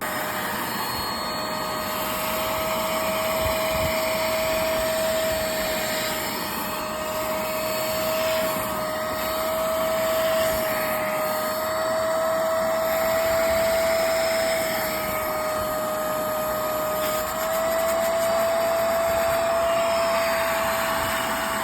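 Hoover Spotless portable carpet and upholstery cleaner running steadily, its suction motor giving a whine over a rushing of air that wavers slightly in pitch as the nozzle is worked over a truck seat.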